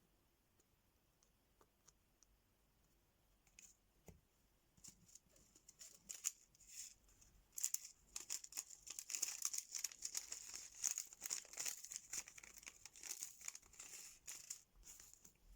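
A few faint light taps, then from about five seconds in a dense, crackly crinkling of plastic being handled, as with the kit's sticker sheets or packaging.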